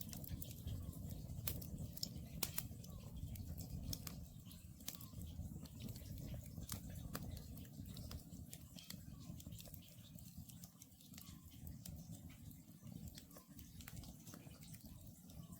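Wood campfire crackling with many sharp pops over a low steady rumble of the burning logs. An Oriental scops owl calls faintly now and then in the distance.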